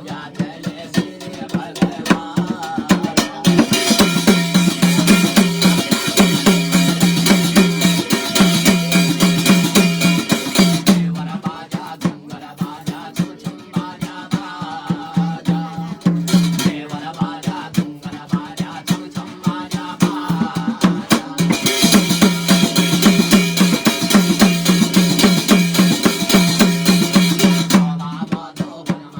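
Instrumental break in Garhwali jagar folk music: fast, steady drumming over a held low note, with a brighter, hissing high layer that joins twice for several seconds each.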